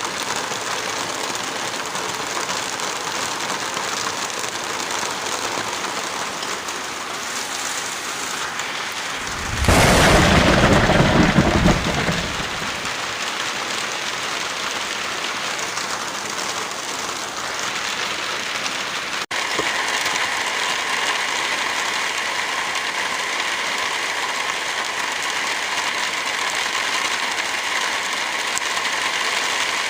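Steady heavy rain with a loud rumble of thunder about ten seconds in, lasting roughly three seconds. The rain briefly drops out a little past halfway, then carries on with a slightly different texture.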